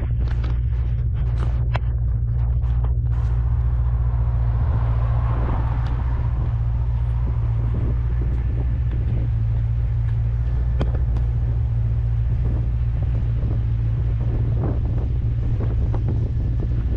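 Wind buffeting the microphone of a moving C3 Corvette over the steady low drone of its 350 small-block V8, with a few sharp clicks in the first three seconds.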